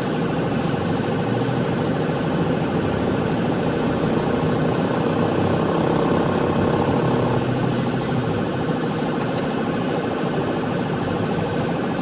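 Sheriff's patrol car driving at low speed, about 33 mph, heard from inside the cabin as a steady engine and road hum that swells a little midway and then eases.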